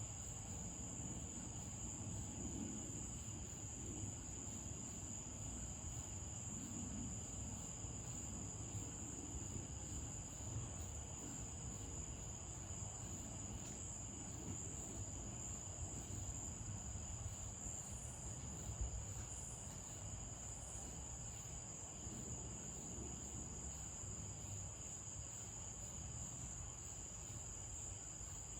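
A steady, high-pitched chorus of night insects, crickets, chirring without a break over a low, even rumble.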